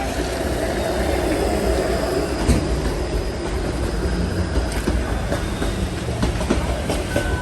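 Toronto streetcar running on its rails, a steady low rumble with scattered clicks and knocks from the wheels and a faint high wheel squeal about two seconds in.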